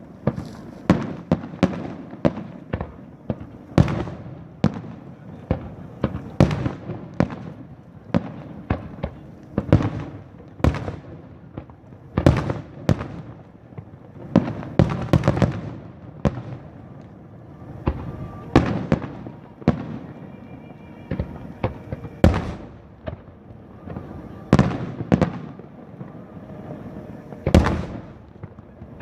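Aerial fireworks shells bursting one after another in a long, steady string of sharp bangs, about one or two a second, a few louder than the rest.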